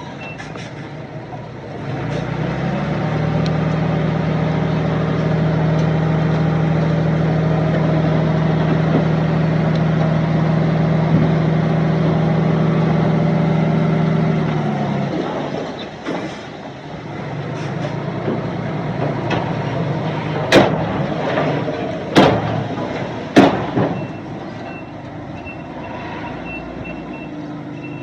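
Heavy diesel earthmoving engine revving up and held hard under load for about twelve seconds, then dropping back. Three sharp loud bangs follow a few seconds later, and a reversing beeper sounds near the end.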